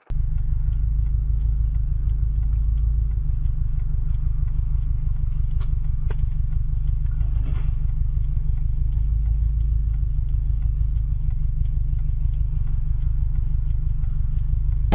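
Loud, steady low rumble of a vehicle on the move, with a fast, even pulse and a few faint clicks about halfway through.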